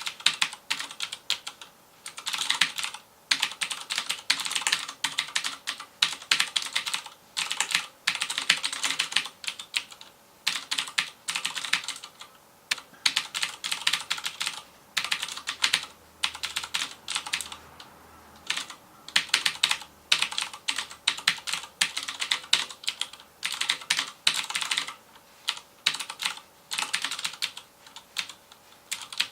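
Fast typing on a FILCO Majestouch Convertible 2 mechanical keyboard with Cherry MX Blue switches, each keystroke a sharp click. The keystrokes come in rapid runs broken by short pauses every few seconds.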